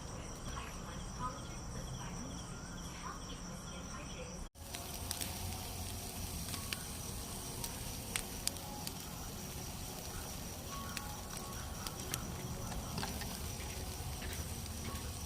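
Night insects, crickets, chirping in a steady high-pitched chorus, broken by a brief cut about four and a half seconds in; afterwards a few sharp pops stand out now and then.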